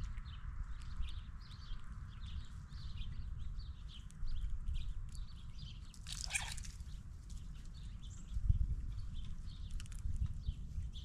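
Squirrels cracking and chewing peanuts at a feeding table: a quick repeated crunching about two to three times a second, with one louder sharp sound about six seconds in. Wind rumbles on the microphone underneath.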